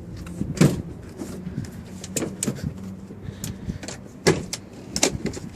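Door of a 2005 Ford F-150 pickup being unlatched and opened: a handful of sharp clicks and knocks from the handle and latch, the loudest about half a second in and twice near the end.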